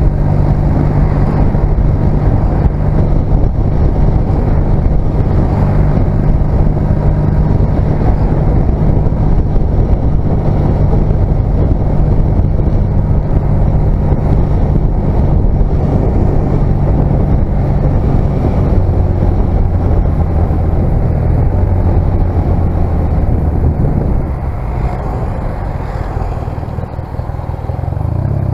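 1996 Honda CMX250C Rebel's 234 cc parallel-twin engine running steadily at cruising speed. Near the end the engine note drops in pitch and gets quieter as the bike slows, then picks up again.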